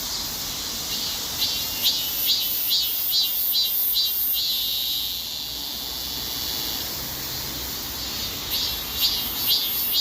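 Robust cicada (Hyalessa fuscata) singing: a run of pulsed calls about two a second gives way, about four seconds in, to one drawn-out buzzing note that fades by about seven seconds, and the pulsed calls start again near the end.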